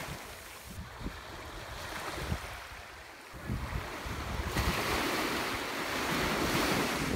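Wind gusting on the microphone over the rush of sea waves. It eases about a second in and picks up again about halfway through.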